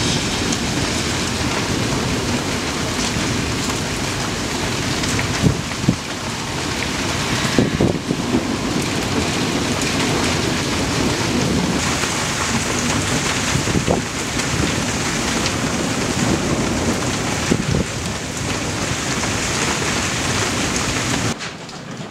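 Heavy thunderstorm rain pouring down: a dense, loud, steady hiss with scattered sharp hits. It cuts off suddenly near the end.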